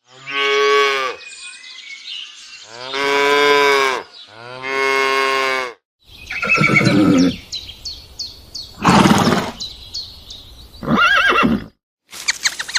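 Farm animal calls: three long, drawn-out calls in the first six seconds. Then, after a short break, three shorter, rougher calls with small birds chirping quickly behind them.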